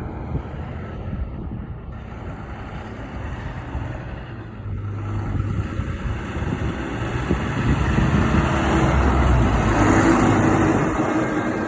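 Semi truck's diesel engine rumbling as it drives past, growing louder over the second half and then easing off near the end.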